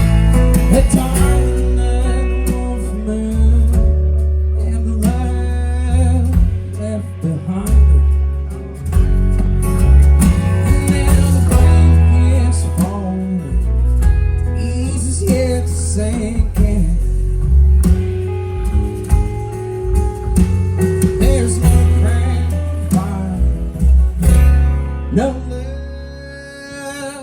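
Live country band playing a song with singing, acoustic guitar, bass and drums; the song winds down and stops near the end.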